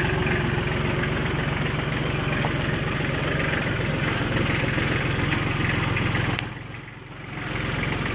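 Tractor engine running steadily as the tractor is driven. The sound drops away for about a second near the end, then comes back.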